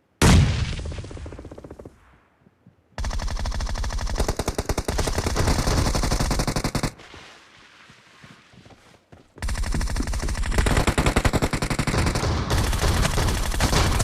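Video-game automatic gunfire: a loud bang that fades over about two seconds, then two long runs of rapid automatic fire with a short lull between them.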